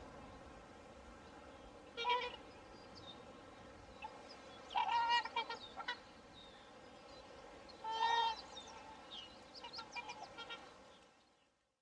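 Swans calling: a honking call about two seconds in, a longer call around five seconds, another near eight seconds, then a string of shorter, fainter calls, over steady background noise that fades out near the end.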